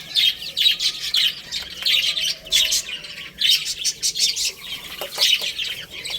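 A group of baby chicks chirping, many short high peeps overlapping in quick succession, coming in bunches every second or so.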